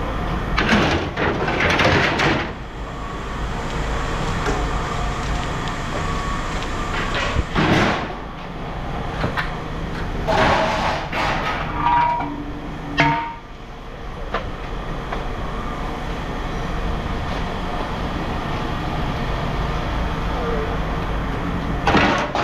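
A vehicle or machine engine running with a steady low rumble, broken by several short bursts of clatter or scraping, with two brief beeps a little past the middle.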